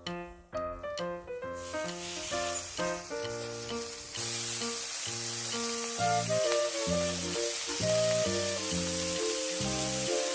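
Food sizzling in a hot pan. The sizzle starts about a second and a half in and grows louder a few seconds later, under background music of plucked or keyed notes.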